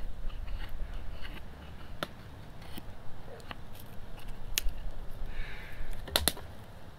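A knife working wood: a string of sharp clicks, a short scrape, and a pair of louder knocks near the end.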